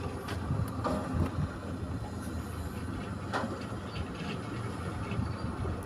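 Steady low mechanical rumble with a few faint clicks and light knocks.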